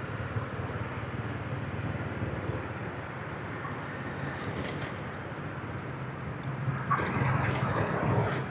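Steady street-traffic noise heard from a moving motorbike: a low rumble of motorbike engines and road noise, getting louder about seven seconds in.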